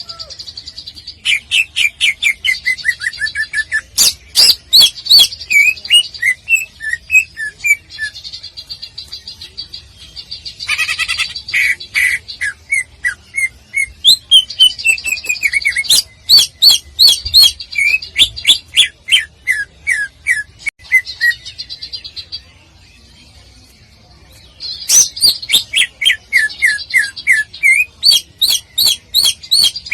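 Greater green leafbird (cucak ijo) singing loud bouts of rapid, sharp notes that fall in pitch, about five a second, mixed with hard clicking notes. There are several bouts with short pauses between them; the longest pause comes a little after the middle.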